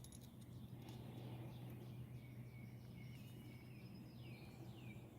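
Quiet background with a steady low hum, a few light clicks about a second in, and faint bird chirps, several short falling calls, in the second half.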